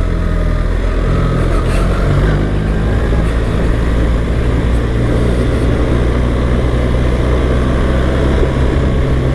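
BMW R 1300 GS boxer-twin engine running steadily while riding a dirt trail, under a steady rush of wind and road noise.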